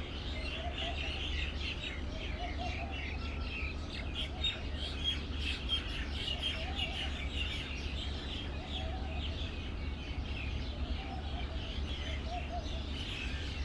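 Many small songbirds chirping and twittering without a break, with a lower wavering call repeating every second or two. A steady low rumble sits underneath.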